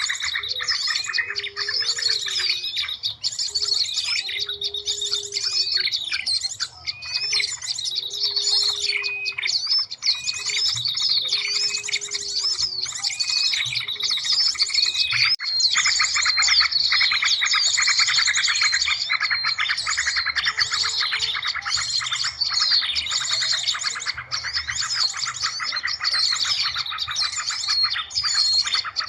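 Bird-lure recording: many small birds chirping and trilling over one another in a dense chorus, used to call in small birds. A low call repeats about every second and a half through the first half.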